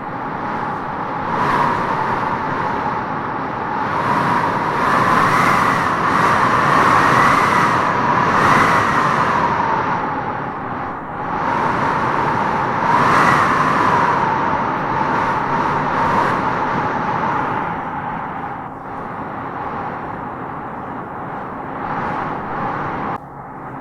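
Wind howling through tropical trees, a steady rush with a wavering howl that swells in gusts, strongest a few seconds in and again about halfway through, then easing.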